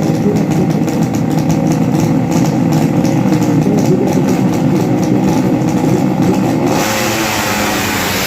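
Racing motorcycle engines running at high revs on a drag strip. About seven seconds in the sound changes abruptly to a hissier, rougher noise.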